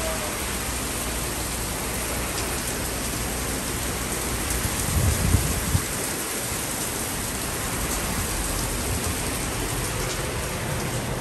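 Heavy downpour of rain, a steady hiss of rain falling on surfaces, with a brief low rumble about five seconds in.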